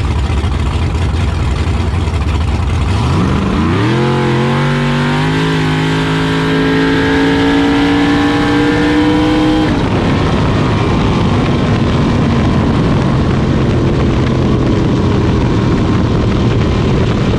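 Vehicle engine: a low rumble, then a pitch that climbs for several seconds as it accelerates. The engine sound cuts off suddenly about ten seconds in and gives way to a steady noise.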